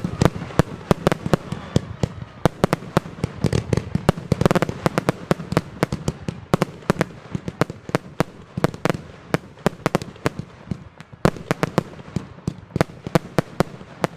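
China Red 'Bulldozer' firework going off: a rapid, uneven run of sharp bangs, several a second, thinning slightly past the middle and then picking up again.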